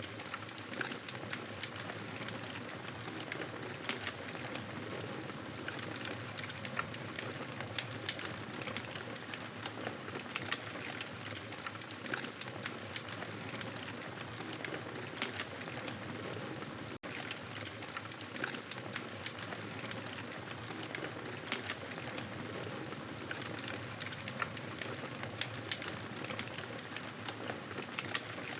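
Campfire burning with a steady hiss and many small irregular crackles and pops. The sound cuts out for an instant a little past the middle.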